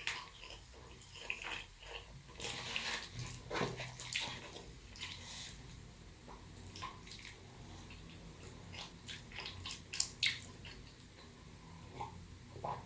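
Close-miked chewing of a burrito: wet mouth smacks and clicks, irregular and unbroken, with the loudest smack about ten seconds in.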